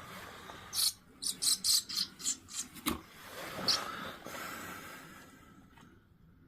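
Nestling house martins cheeping: a quick run of about eight short, high-pitched cheeps over two seconds, then one more a moment later.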